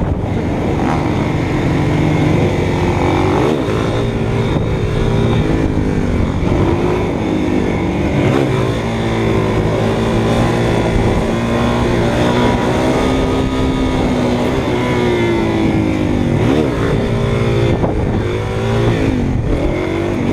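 Motorcycle engine running at riding speed, its revs rising and falling repeatedly as the throttle opens and closes.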